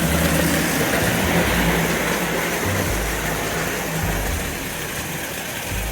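Lionel 402 double-motor standard gauge electric locomotive running steadily with its passenger cars on the track: an even motor whir and wheel noise, with a low hum that swells and drops.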